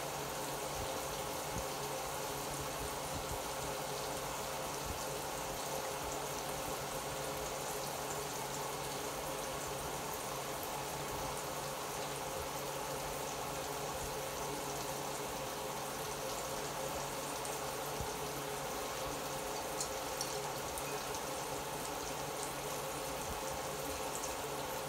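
Steady sizzling and bubbling of food cooking on a gas stove: chopped onions frying in canola oil in an open pan, with lidded pans simmering alongside. An even, unbroken hiss with occasional small ticks.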